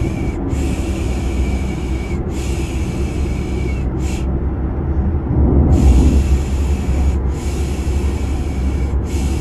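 Steady low car-engine rumble of a baby-sleep sound effect, with rhythmic 'shh' shushing over it: three long shushes and a short one, a pause of about a second and a half, then the pattern again.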